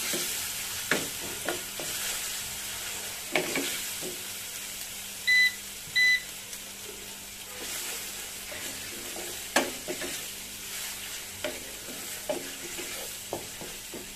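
Onions and ginger-garlic paste sizzling in oil in a nonstick pan, with a spatula scraping and knocking against the pan as it stirs. About five seconds in, two short electronic beeps sound, the loudest thing heard.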